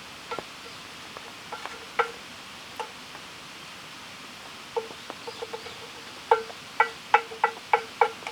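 A run of sharp, hollow clinks, each ringing briefly with the same tone, as if a hard resonant object such as a pot or cup is struck. They come scattered at first, then in a quicker series of about three a second near the end. Under them runs a steady hiss of rain.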